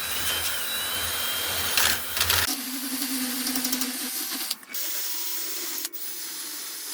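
Cordless drill spinning a bit against the steel frame to clean out corners, running steadily. About two and a half seconds in its sound changes, and it breaks off briefly twice after that.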